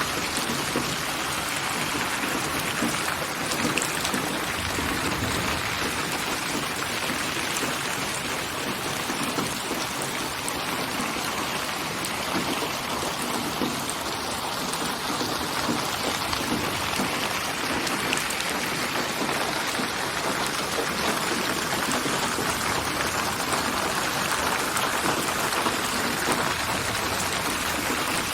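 Steady rain falling, an even patter of raindrops used as a white-noise sleep track.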